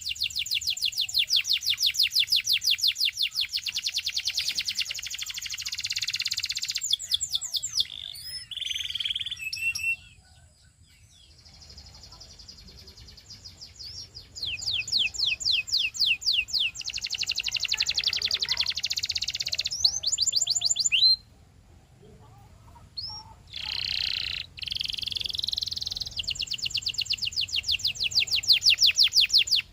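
Canary singing: long, rapid trills of repeated high notes, each held for several seconds, with short rising whistles and brief pauses between the tours.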